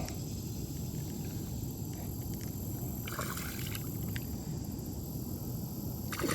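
Water splashing against the side of a small boat, twice, as a hooked bass is worked in close, over a steady low rumble.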